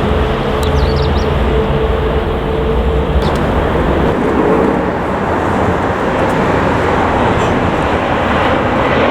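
Jet airliner engines running loud and close: a steady rush of noise with a low rumble and a steady whine that fades out about four and a half seconds in.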